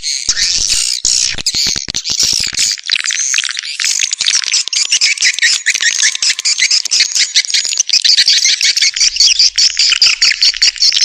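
Swiftlet call recording used to lure wild swiftlets to a swiftlet house: dense, rapid, high-pitched chattering twitters of many swiftlets. From about three seconds in, only the high twittering remains, with nothing below it.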